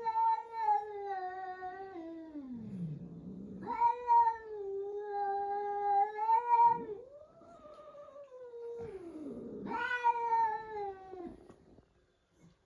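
A cat yowling: four long, drawn-out wails of about two to three seconds each, the first and third sliding down in pitch as they end.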